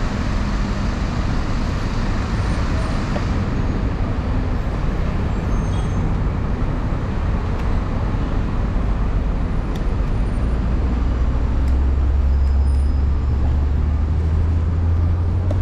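City street traffic: a steady roar of passing vehicles, with a heavy vehicle's low engine rumble growing louder in the last few seconds.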